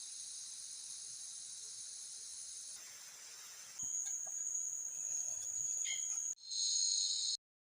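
Steady, high-pitched chorus of forest insects buzzing. It shifts abruptly to a different pitch a few times, then cuts off near the end.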